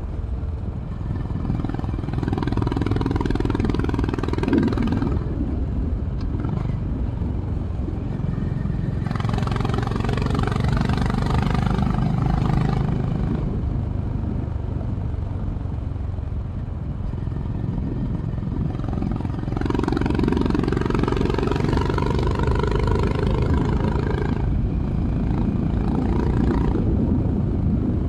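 Honda CB350 RS single-cylinder engine through its stock exhaust, heard onboard while riding. It opens up three times and eases off in between, over a constant low wind rumble.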